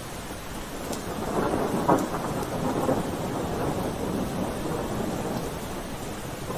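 Steady rain with a rumble of thunder that swells about a second in, peaks soon after and slowly fades back under the rain.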